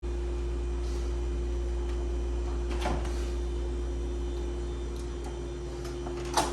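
Steady low hum, like air-handling or mains hum, starting abruptly, with a faint knock about three seconds in and a sharp click near the end.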